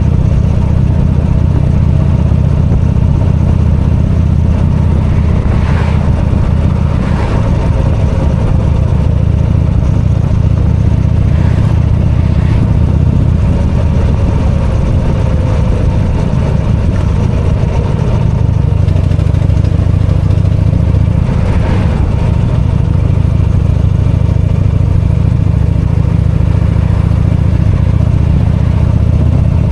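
V-twin motorcycle engine running steadily under way, with slight changes in pitch as the throttle varies and a few brief clatters.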